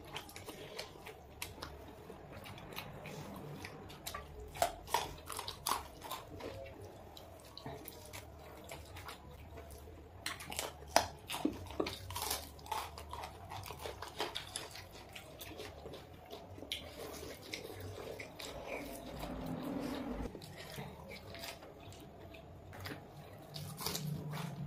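Wet chewing and biting of boiled eggs in curry gravy, with many sharp mouth clicks and smacks scattered irregularly throughout.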